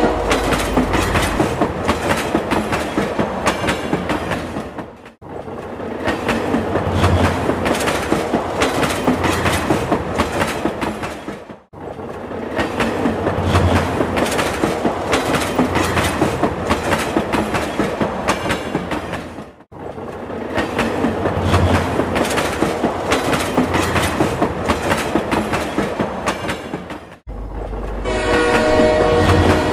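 Train running, a fast rhythmic clickety-clack of wheels over rail joints, with a horn sounding at the start and again near the end. The sound cuts out abruptly and briefly four times, in edits.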